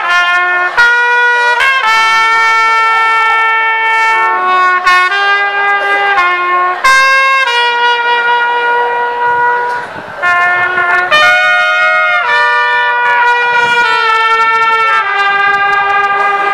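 Trumpet playing a slow melody of long held notes, one after another, with a short dip about ten seconds in.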